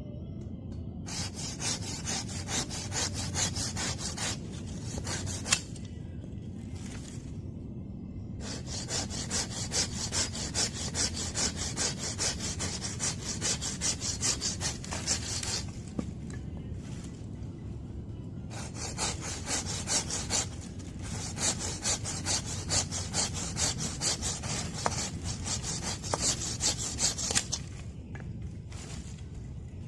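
Hand saw cutting through wood with quick, even back-and-forth strokes, in three bouts separated by short pauses.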